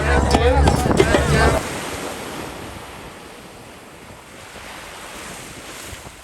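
Music with singing over drumming stops suddenly about a second and a half in, leaving sea surf washing on the shore with wind buffeting the microphone.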